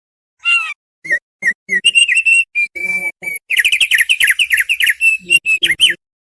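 Opior paruh tebal (thick-billed heleia) singing: a burst of clear whistled notes, starting with a few spaced phrases and breaking into a fast run of quick falling notes about three and a half seconds in, before stopping abruptly.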